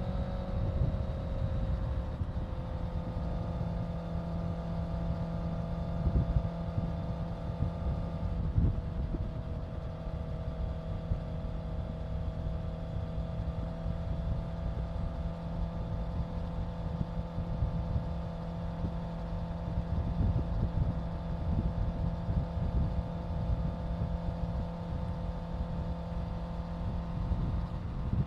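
Honda CBR650F's inline-four engine running at a steady cruise, its note easing down a little in the first two seconds and shifting slightly about eight seconds in, over heavy wind rumble on the microphone.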